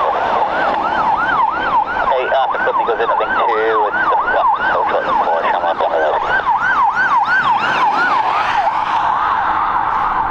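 A siren-like warbling tone sweeping up and down in pitch about three times a second, heard over a radio channel.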